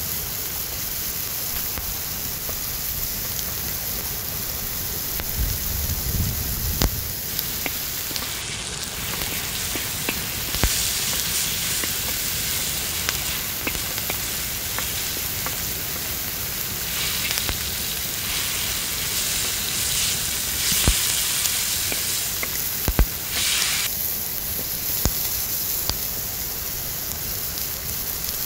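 Meat, onions and tomato paste frying in a large steel disc pan over a wood fire, a steady sizzle stirred with a wooden spoon. The sizzle swells in spells, and there are scattered sharp clicks.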